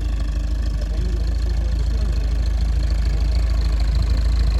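A car engine idling steadily, the low rumble growing slightly louder.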